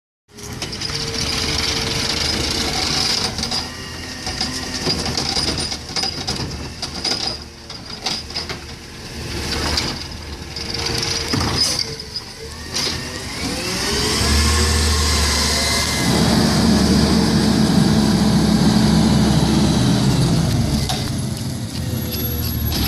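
Garbage truck engine running, revving up with a rising pitch a little past halfway and holding the higher revs for several seconds before easing off. A few sharp knocks come just before the rev-up.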